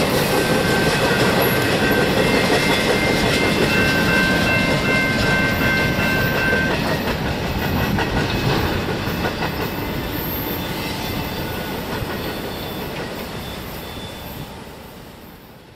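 Freight train's boxcars rolling past on the rails, wheels clacking, then fading away as the train recedes. A thin high-pitched squeal comes and goes during the first half.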